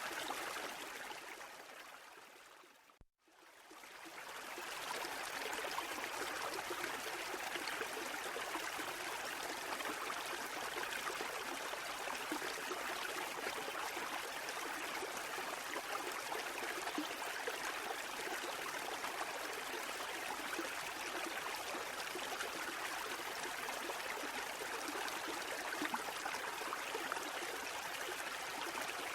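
Steady rushing water with no swell rhythm. It fades out to silence about three seconds in and fades back in over the next two seconds, like a splice in a looped recording.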